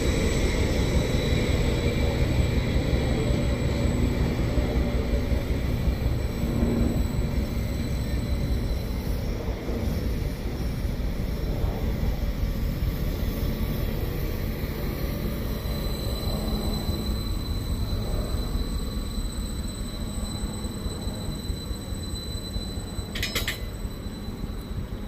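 Train running through the station: a steady low rumble with faint high squealing tones, slowly fading.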